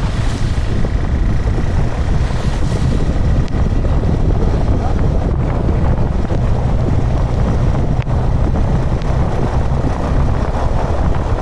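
Steady wind rush and low rumble on the microphone of a moving motorcycle.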